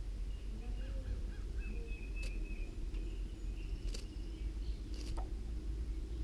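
Faint, thin, high peeps of wren nestlings begging while a parent wren is at the nest. Three sharp ticks come about two, four and five seconds in, over a steady low background rumble.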